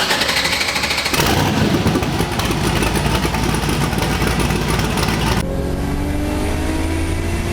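Turbocharged LS V8 engine of a 240SX running loud and rough for the first few seconds, then, after a sudden change about five and a half seconds in, a steadier engine note rising slowly in pitch as the car accelerates.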